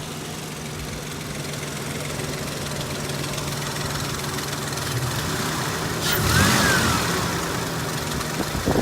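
Ford Sport Trac engine idling with Seafoam freshly added to the oil; the lifter tick can still be heard faintly but is a lot quieter. About six seconds in, a short squeal rises and falls over the running engine.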